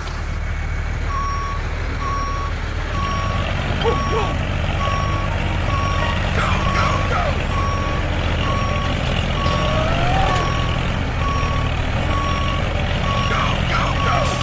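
A truck backing up: its engine runs steadily under a reversing alarm that beeps about once a second, starting about a second in.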